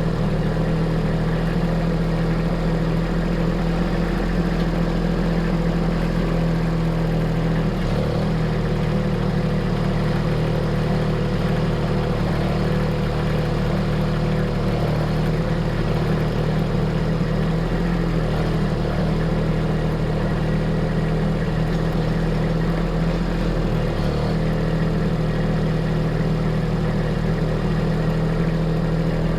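Engine of heavy work equipment running steadily, with brief changes in its note about 8 and 24 seconds in.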